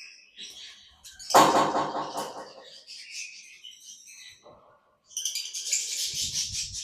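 Parrots in an aviary chirping and calling, with a loud harsh squawk about a second in and a burst of dense, high chatter near the end.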